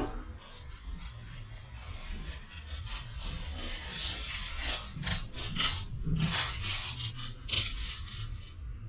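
Rough scraping and rubbing, with scattered short clicks and knocks, thickest in the second half.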